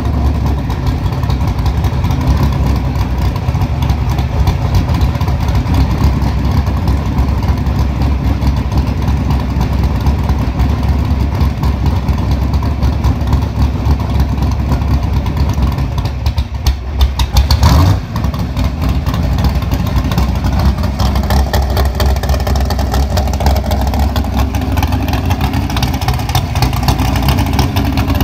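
A Pro Comp Camaro's 555 cubic inch methanol-burning big-block Chevy V8 runs loud and steady on its first start of the season. About 17 seconds in it briefly drops off, then takes one sharp rev.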